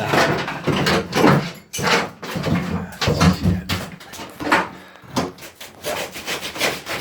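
Bathroom wall demolition: wood and wall material being knocked, cracked and scraped loose in a rapid, irregular run of knocks and rasping scrapes.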